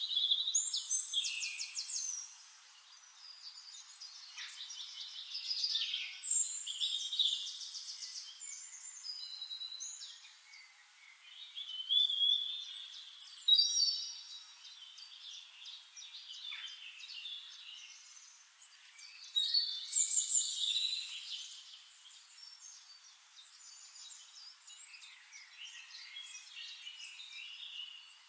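Songbirds singing: bursts of high chirps and rapid trills every few seconds, with quieter stretches between.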